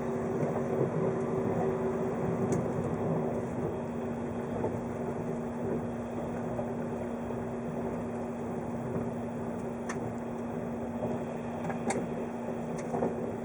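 Cabin sound of a 583 series electric train under way: a steady rolling rumble with a constant low hum, and a few brief sharp clicks, one early and several near the end.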